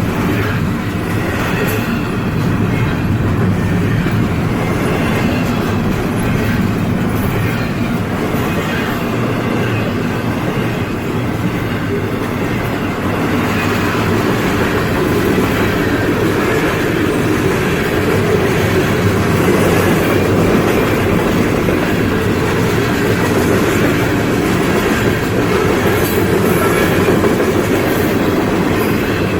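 A train passing, its wheels running steadily on the rails with a low rumble and faint clicks from the rail joints.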